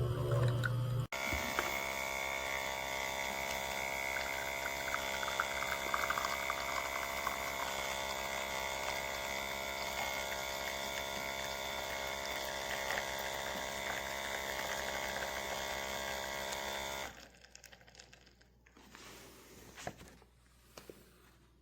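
Outin Nano portable electric espresso machine's pump running steadily as it pushes water through the coffee, with espresso pouring into the cup. It stops abruptly near the end.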